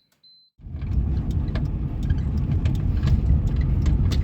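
A faint high beep ends about half a second in. Then the cabin of a moving 1998 Suzuki Baleno comes in suddenly: a steady low rumble of road and engine noise with scattered light clicks and knocks.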